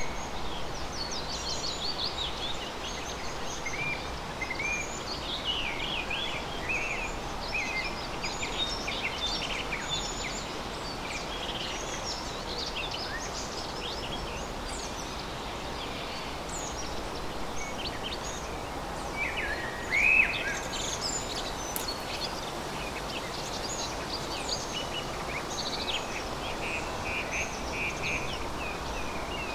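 Forest ambience: many birds chirping and singing over a steady background hiss, with one louder call about twenty seconds in.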